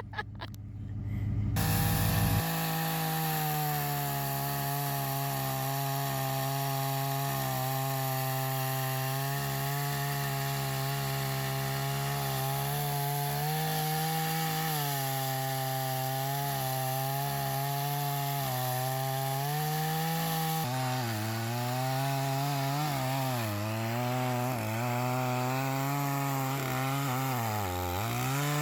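Gas chainsaw cutting up a felled tree. It starts about two seconds in and runs at high revs, then in the last third the pitch dips again and again as the chain bogs down in the wood.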